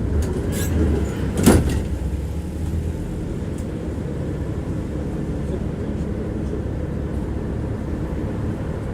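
Tram running on its rails, a steady low rumble of wheels and running gear, with one sharp clack about a second and a half in.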